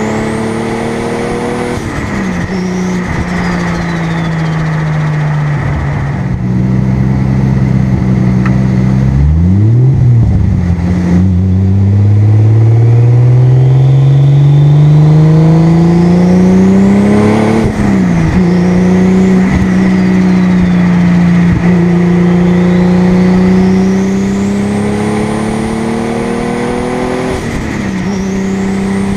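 Car engine cruising and accelerating under load: the engine note climbs steadily through a long pull, then drops sharply as a gear change is made. A thin high turbo whistle rises and falls three times, typical of the Supra's single-turbo 2JZ inline-six spooling up and letting off.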